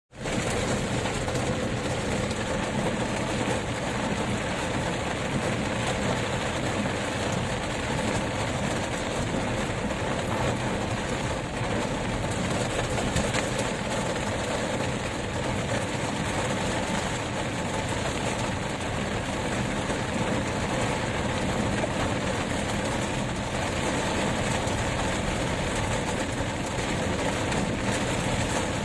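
Summer storm: a steady, unbroken rush of wind and rain noise.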